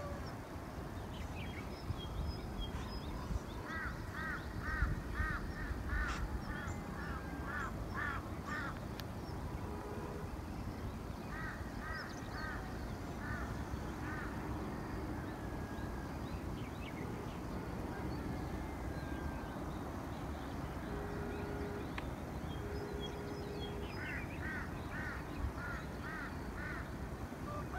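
A bird calling in bouts of quick, repeated short notes, about two or three a second, coming three times, over a steady low rumble.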